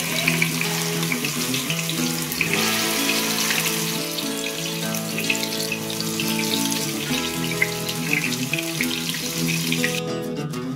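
Ginger-garlic paste sizzling and crackling in hot oil in a pot, the sizzle cutting off suddenly near the end, over background music.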